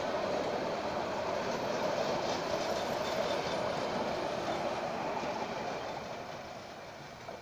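A steady rumbling noise that fades away over the last two seconds or so.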